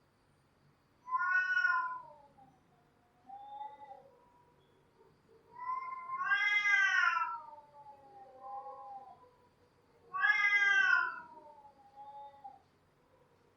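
Cats yowling: three loud, drawn-out calls that rise then fall, about four seconds apart, each trailed by softer, lower whines.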